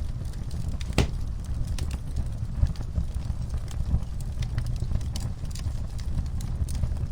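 Wood fire crackling in a fireplace: scattered sharp pops and snaps over a steady low rumble of the flames, with one loud pop about a second in.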